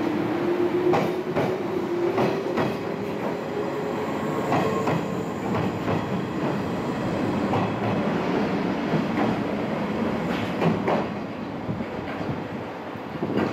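Passenger train passing close by, its wheels knocking over rail joints in a clickety-clack over a steady running rumble, with a slowly gliding tone from the train in the first few seconds.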